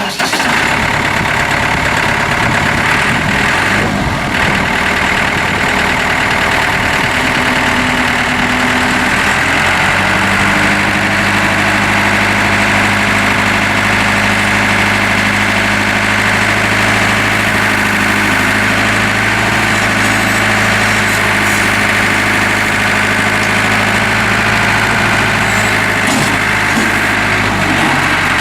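2007 New Holland TT75A tractor's four-cylinder Iveco diesel engine running steadily at idle, its low hum settling into an even note about ten seconds in.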